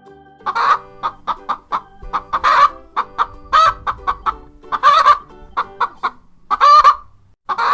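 Hen clucking: a rapid run of short clucks broken by louder, drawn-out calls about every one to two seconds.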